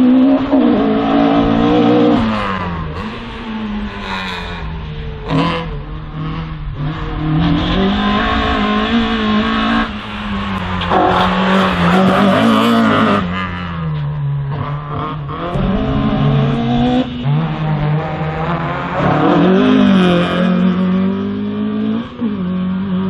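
A slalom race car's engine revving hard and backing off again and again as the car is driven through the course, with stretches of tyre squeal.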